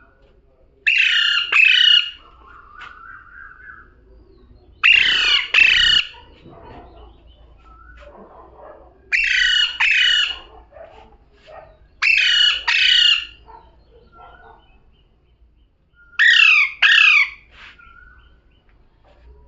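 Pet parrot screeching in loud two-note calls, five pairs a few seconds apart, with quieter chatter between them.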